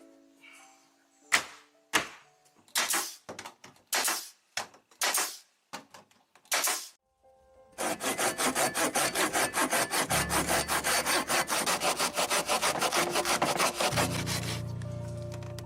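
Wood being sawn. There are a few separate, uneven strokes at first, then from about eight seconds in a long run of fast, even strokes.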